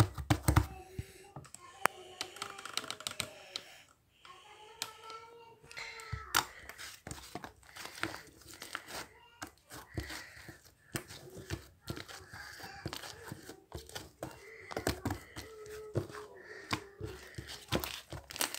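Slime being squished and stretched by hand, giving many small irregular crackling pops and clicks.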